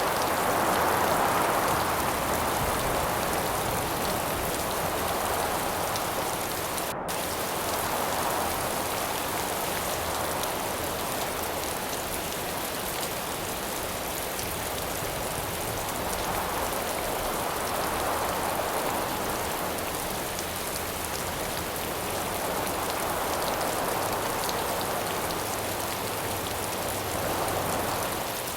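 Steady rain falling, with wind swelling and fading in slow gusts every several seconds.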